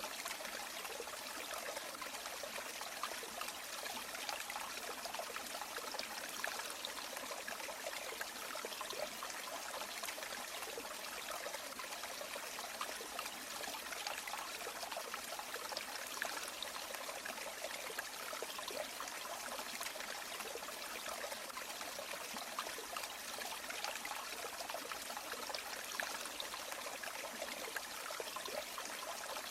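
River water flowing steadily over stones, a continuous rushing with small trickles and splashes.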